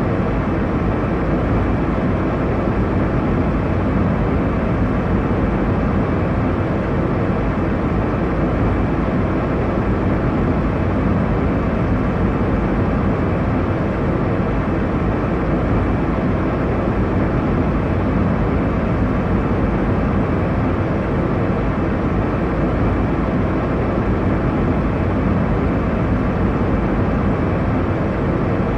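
Steady airliner cabin noise in cruise: a constant deep rush of engine and airflow noise, strongest in the low range, with no changes or distinct events.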